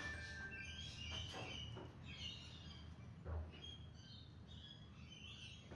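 Faint bird chirps and calls, short and scattered, with a soft low thump about three seconds in.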